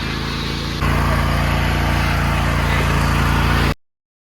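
A motor vehicle engine running steadily at idle. It gets louder about a second in, then cuts off abruptly near the end.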